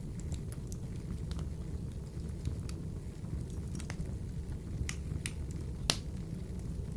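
Wood fire burning in a wood stove: a steady low rumble of flames with scattered crackles and pops, the loudest sharp pop about six seconds in.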